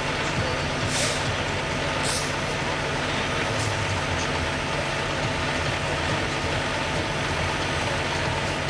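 Fire truck diesel engines running steadily under a constant rushing noise, with two short hisses about one and two seconds in.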